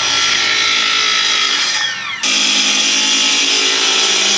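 A power tool running loud and steady under load, with a short break about two seconds in before it starts again and then cuts off abruptly.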